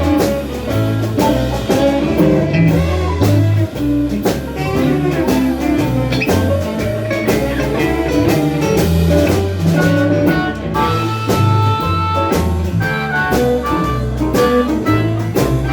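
Live blues band playing an instrumental section: guitar over a walking bass line and drum kit.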